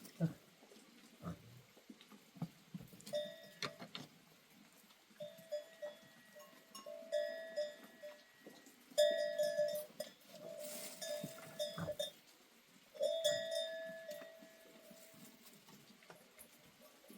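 Bells on goats' necks clanking and ringing in irregular runs as the herd moves, each run a second or two long.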